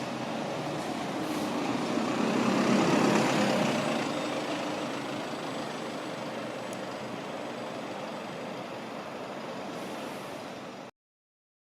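A London bus drives past, its engine and road noise swelling to a peak about three seconds in and then slowly fading. The sound cuts off abruptly near the end.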